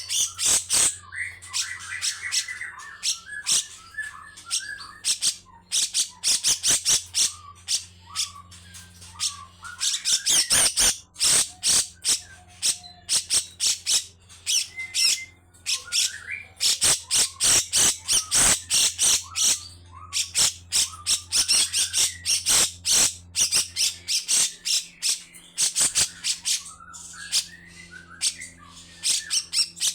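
Cucak jenggot (grey-cheeked bulbul) giving long runs of harsh, rasping calls in rapid strokes, grouped in bursts with short pauses between them. A faint steady low hum runs underneath.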